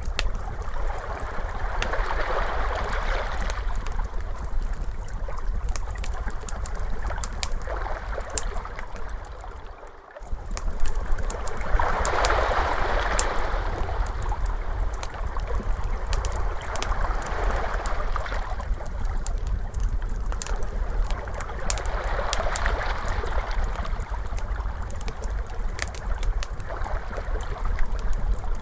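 Ocean waves washing in and out, swelling about every five seconds over a low rumble, mixed with the steady snapping and popping of a crackling wood fire. The sound cuts out for an instant about a third of the way in, then resumes.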